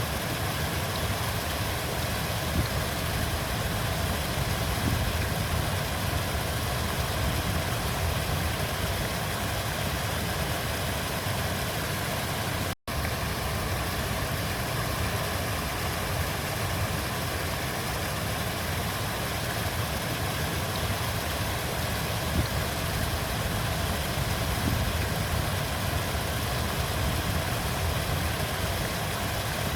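Steady rush of flowing river water with a deep rumble underneath; the sound drops out for an instant about thirteen seconds in.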